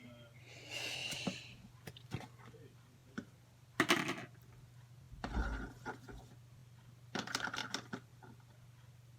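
Slime being handled in four short spells of sticky crackling and clicking, over a steady low hum.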